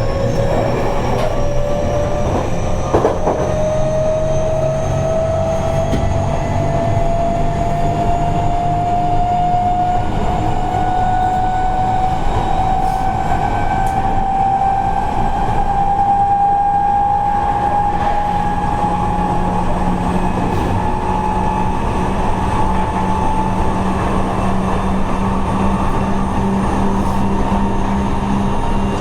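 Seibu 30000 series electric train heard from inside the car, its traction motor whine rising steadily in pitch as the train gathers speed and fading out about three quarters of the way through, over the steady rumble of wheels on rail. A single sharp knock about three seconds in.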